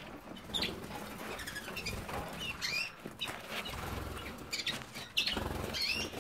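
Canaries fluttering their wings, with several short high chirps scattered through.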